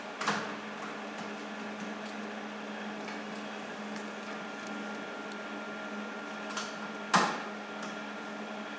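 Steady electric hum of a MIG welder's wire feed motor running while no wire comes out at the torch, the sign of a wire feed jam. A click just after the start and a sharp knock about seven seconds in.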